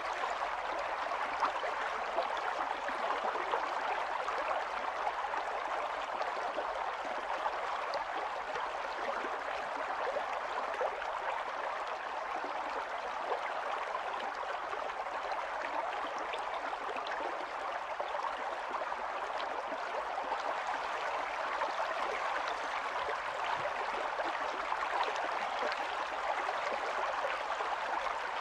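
Small stream running over stones: a steady babble and trickle of water with many small splashes.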